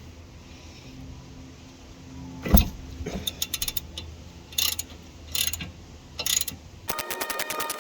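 Socket ratchet clicking in short bursts of strokes as a suspension-arm nut is undone, after a single loud knock about two and a half seconds in. Near the end, a denser, even run of clicks with steady tones takes over.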